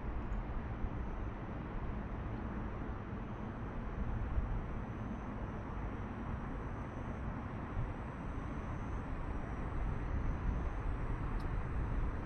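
Wind rushing over the microphone of a camera carried on a moving bicycle: a steady, low rumbling noise with no breaks.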